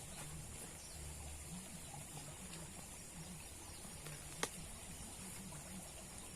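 Faint outdoor ambience: a steady high hiss over a low wavering murmur, with one sharp click about four and a half seconds in.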